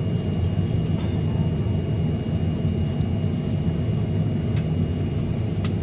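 Steady low rumble inside the passenger cabin of a Boeing 737-900ER with its CFM56 engines running, with a faint steady high whine over it.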